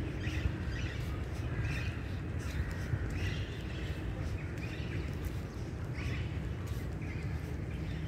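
Birds calling in short repeated calls about every second and a half, over a steady low rumble of outdoor background noise.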